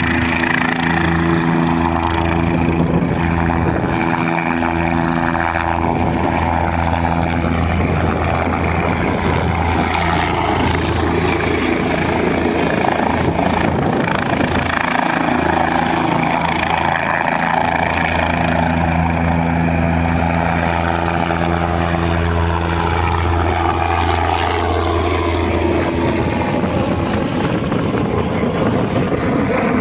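Helicopter running close by: a loud, steady rotor beat with a higher turbine whine that slowly glides in pitch.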